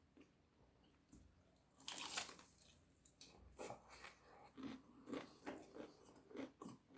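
A person biting into something crunchy about two seconds in, then chewing it in a steady run of soft mouth crunches about twice a second.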